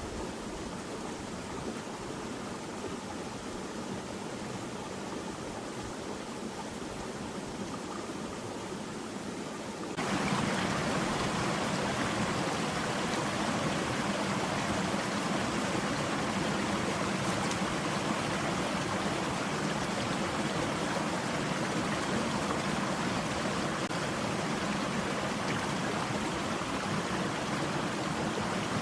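Steady rushing of a forest stream's running water, jumping to a louder, closer sound about ten seconds in.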